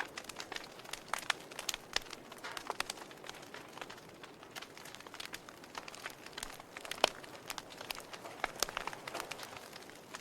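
Wood fire in a fireplace crackling: irregular sharp snaps and pops over a soft hiss, with one louder pop about seven seconds in.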